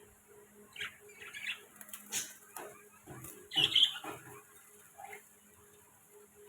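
Budgerigars chirping and chattering in short scattered calls, the loudest about three and a half seconds in.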